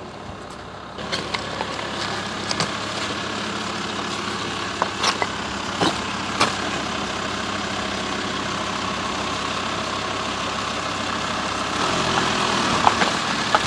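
Motor vehicle engine running steadily, with a few sharp clicks and knocks; it grows louder near the end.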